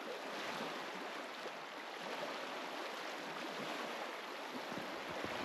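Small waves lapping at a lake shore: a steady wash of water noise.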